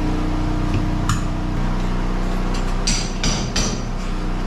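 Three quick hammer blows, about a third of a second apart, over a steady low hum.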